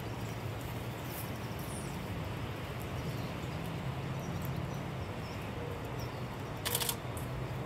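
Steady outdoor background noise with a few faint, high chirps of small birds, and a short cluster of clicks about seven seconds in.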